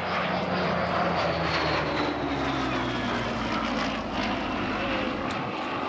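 Hawker Hurricane Mk IIB's Rolls-Royce Merlin V12 piston engine running as the fighter flies past, its pitch falling steadily as it goes by.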